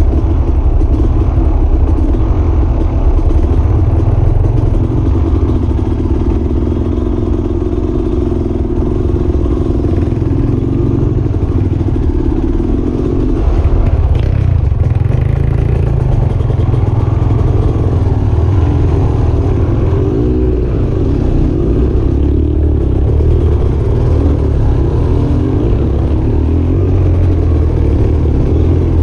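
Off-road vehicle engine running, with the revs shifting up and down.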